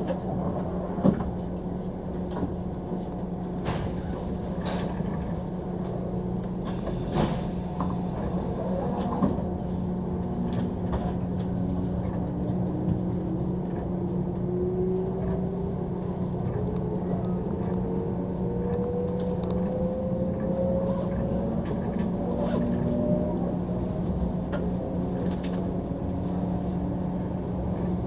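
Running noise inside a 185 series electric train car: a steady hum with a thin whine that rises slowly in pitch through the latter two-thirds as the train gathers speed. Scattered clicks and knocks sound over it.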